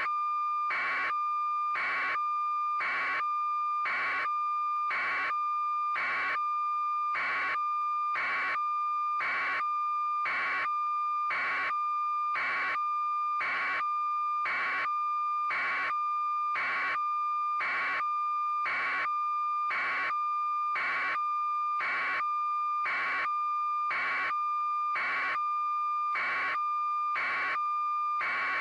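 Electronic beeping, about one beep a second, over a steady high tone.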